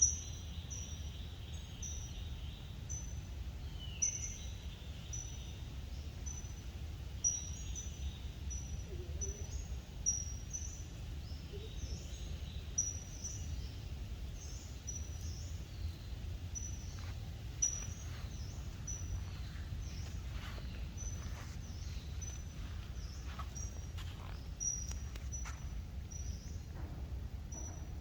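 Forest ambience: a small bird's short, high chirps repeat about twice a second over a steady low rumble, with a few faint clicks in the second half.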